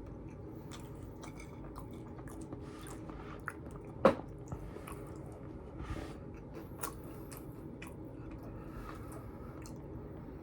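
Close-up chewing and mouth sounds of someone eating fast food, with scattered small wet clicks and one sharp loud click about four seconds in.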